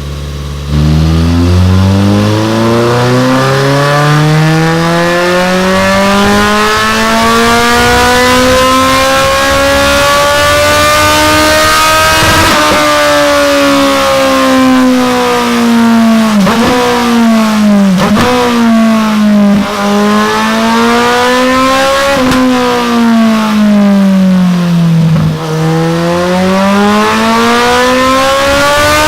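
Suzuki GSF1250 Bandit's inline-four engine running through a Delkevic DS70 carbon-fibre end can, likely on a dyno. The revs climb steadily for about twelve seconds, then fall and rise again in several shorter sweeps with brief sharp breaks in between.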